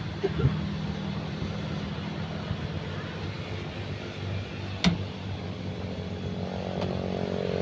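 A train's diesel engine drones steadily as it runs away along the track. There is one sharp click about five seconds in, and a second engine note rises and grows louder near the end.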